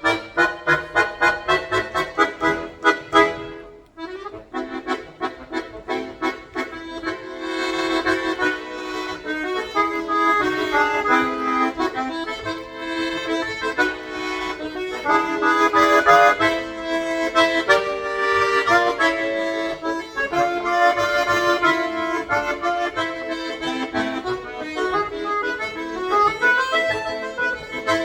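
Solo accordion playing: quick, evenly repeated short chords at about four a second, then a brief break about four seconds in, giving way to a fuller, busier passage of held and moving notes.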